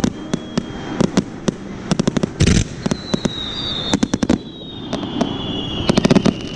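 Fireworks display bursting: a string of sharp bangs and fast crackling salvos, bunched about two seconds in and again near the end, with a thin high tone sliding slowly down through the second half.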